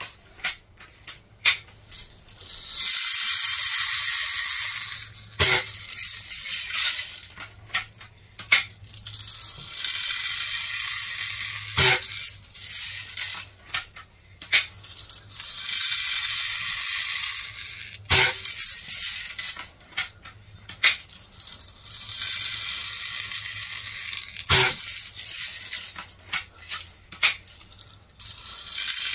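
Rattling of BBs being handled, repeated in cycles about six seconds apart, each ending in a single sharp click, four times in all.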